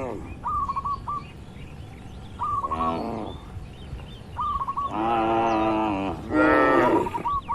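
Cattle mooing: a short call about three seconds in, then two long calls back to back in the second half. Between them a bird repeats quick groups of three or four short chirps.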